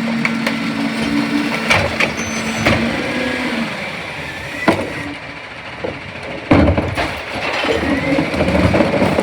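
CNG Autocar Xpeditor McNeilus rear-loader garbage truck at work. A steady hum stops a little over three and a half seconds in, with knocks and clatter throughout, a loud bang about six and a half seconds in, and a rising squeal near the end.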